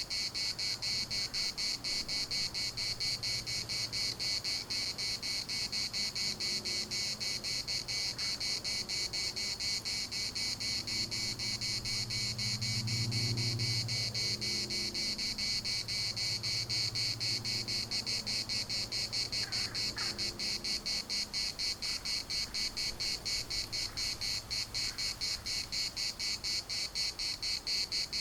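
Cicadas in chorus: a dense, steady, high buzz made of very rapid pulses. A faint low hum runs beneath it and swells slightly around the middle.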